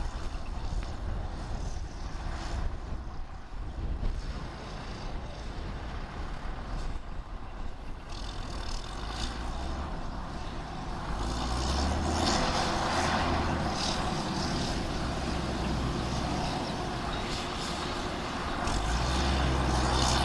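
Diesel engine of heavy earthmoving machinery running steadily, growing louder about twelve seconds in and again near the end.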